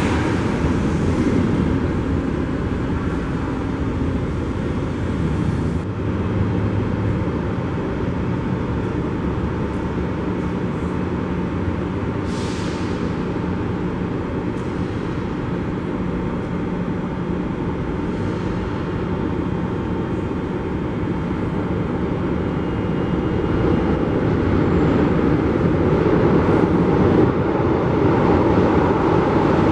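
São Paulo Metro train at a station platform: a steady rumble with a low hum, a short hiss about twelve seconds in, growing louder over the last few seconds.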